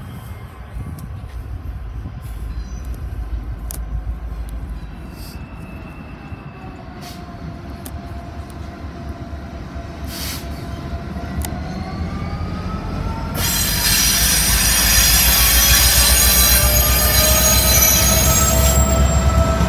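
Norfolk Southern diesel locomotive hauling a freight train, approaching and passing close: a low engine rumble that slowly grows louder, then about two-thirds of the way through a sudden jump to loud rolling noise with high-pitched wheel squeal as the locomotive draws alongside.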